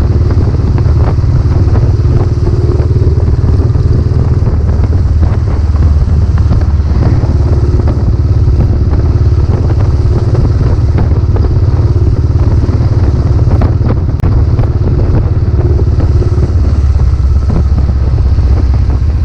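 Royal Enfield Classic 500's single-cylinder engine running through its new silencer, a loud, steady exhaust note with most of its weight in the low end.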